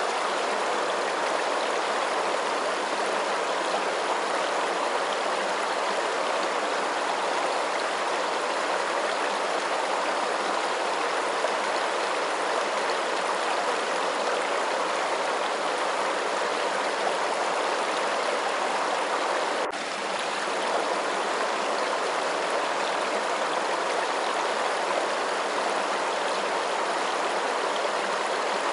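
Steady, continuous rushing water with an even level throughout, used as white noise, and a brief momentary dip about two-thirds of the way through.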